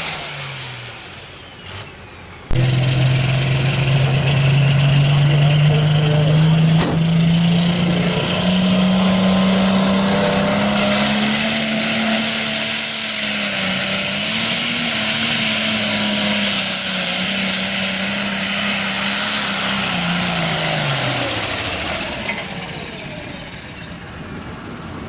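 Diesel tractor engine at full throttle on a drag run. It cuts in suddenly a couple of seconds in and climbs steadily in pitch for about ten seconds. It holds there, then drops in pitch and fades near the end as the throttle comes off.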